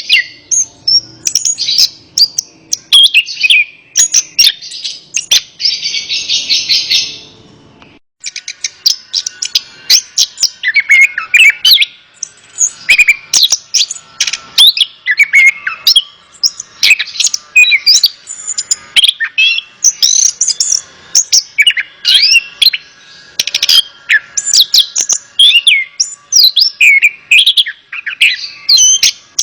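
Orange-headed thrush singing a fast, varied stream of whistled and chattering phrases, with a brief pause about eight seconds in.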